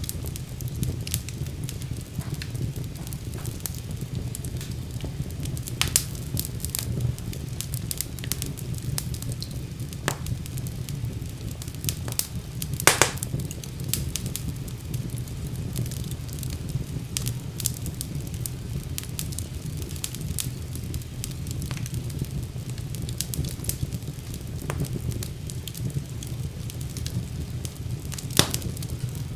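Fire burning in a fireplace: a steady low rumble of flames with frequent crackles and sharp pops. The loudest pop comes about halfway through.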